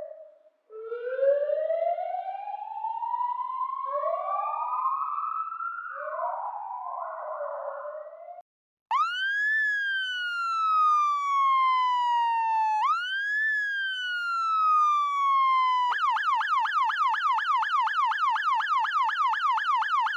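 Police siren sound effects played one after another. First comes a tangle of several overlapping rising wails, then after a brief gap a clean wail that rises quickly and falls slowly, twice. About two-thirds of the way through it switches to a fast yelp that sweeps rapidly up and down.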